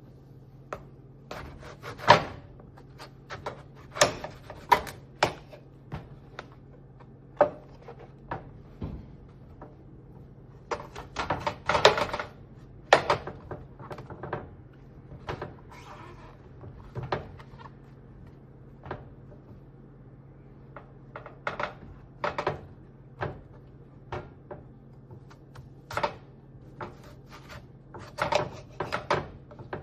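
Kitchen work sounds: irregular knocks and clacks of utensils, dishes and a cutting board, some in quick runs, over a steady low hum.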